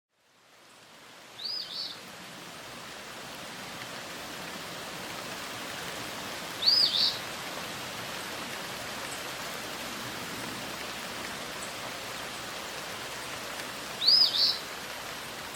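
Nature ambience fading in: a steady watery hiss, like rain, with a bird giving a short two-note call three times, several seconds apart.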